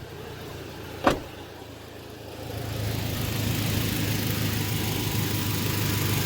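Toyota truck engine idling with the air conditioning on max, a brief sharp sound about a second in, then the running noise rising about two and a half seconds in and holding steady. No distinct compressor clutch engagement stands out; the owner takes this for a dead AC compressor.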